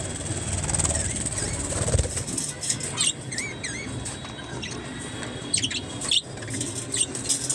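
Budgerigars chirping in short, quick calls, with wing flutters and sharp clicks among them; a dull thump about two seconds in.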